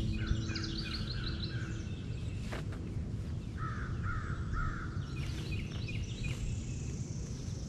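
Birds calling outdoors: scattered chirps, then three short harsh calls in a row about halfway through, over a steady low background noise. A single sharp knock sounds a little before the calls.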